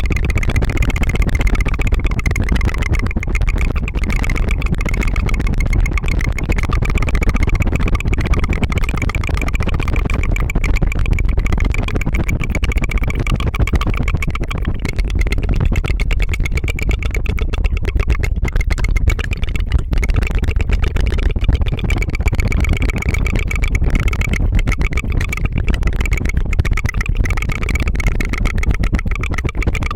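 Rapid tongue fluttering close to the microphone: a continuous, fast 'tu-tu-tu' buzzing trill, like a small engine running.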